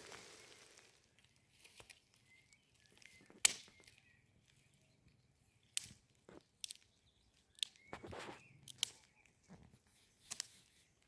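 Scattered sharp clicks and snaps at irregular intervals, with a few faint bird-like chirps. A steady hiss fades out at the start.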